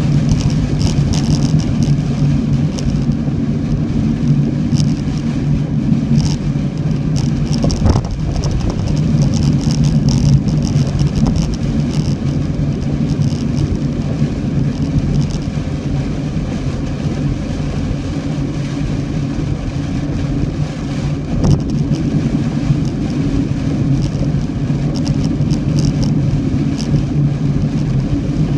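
Steady low rumble of a car driving along the road, with scattered light ticks above it and two short knocks, about a third and three-quarters of the way in.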